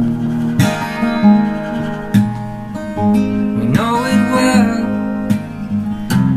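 Acoustic guitar strummed in a song, chords ringing with regular strokes.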